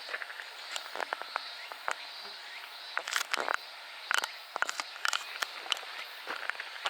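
Footsteps crunching irregularly on an outdoor path, with sharp clicks scattered throughout, over a faint steady high-pitched insect-like drone.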